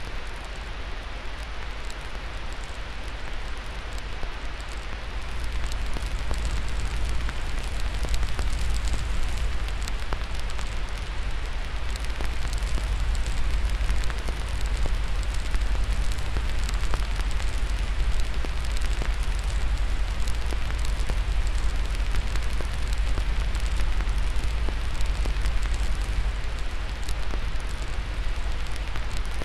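Wood fire crackling with many small pops and snaps over a steady hiss and low rumble.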